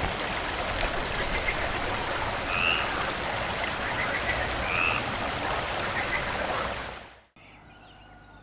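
Brook water running steadily, with two short bird chirps in the middle. It cuts off sharply near the end, leaving quieter background birdsong.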